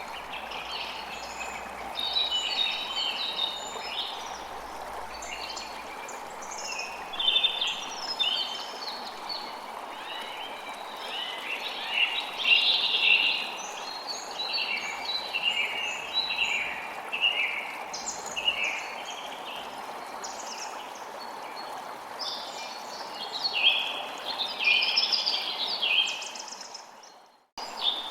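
Many birds chirping and singing over a steady rush of flowing water. The sound fades out and drops to silence for a moment near the end, then comes back.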